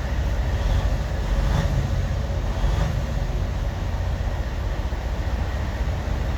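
A truck's motor running steadily with a low rumble and no change in speed.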